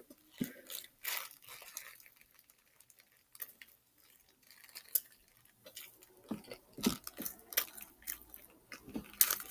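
Close chewing of a crispy fried chicken sandwich: irregular crunches and wet mouth clicks, quieter for a stretch in the middle.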